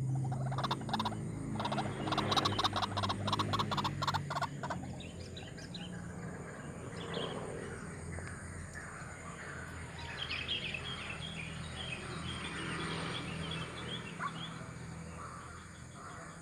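Birds chirping in many short, quick calls through the second half, over a low steady hum. Rapid clicking and rattling fills the first four seconds.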